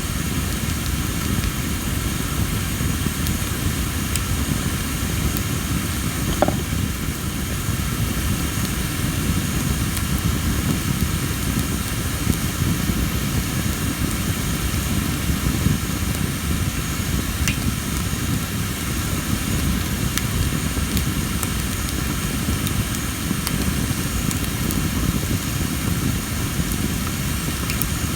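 Tree-of-heaven (Ailanthus) wood burning in a campfire: a steady low rumble of flames with a few sharp crackling pops, the loudest about six seconds in. The uploader puts the pops down to the wood's high moisture. A steady high insect trilling sounds underneath.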